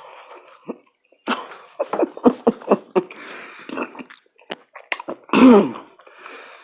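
Close-miked chewing of food, with wet smacks and sharp mouth clicks about four a second. About five seconds in comes one short, loud burst from the eater's throat, like a cough or sneeze, falling in pitch.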